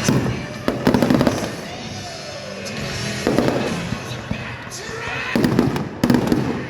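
Aerial fireworks going off in an irregular string of loud bangs, each followed by crackling, with a falling whistle partway through.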